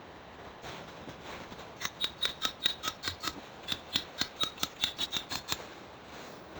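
A fast run of sharp metallic clicks, about six a second, in two bursts with a short pause between.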